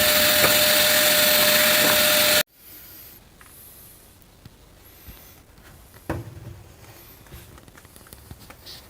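A vacuum cleaner running with a steady whine, cut off abruptly a couple of seconds in. After that it is fairly quiet, with a few small knocks and one louder thump about six seconds in.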